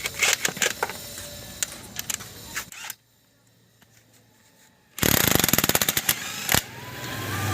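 Hand tools being worked on metal: scattered clicks and knocks, a pause, then a rapid run of clicks lasting about a second and a half. A low hum comes up near the end.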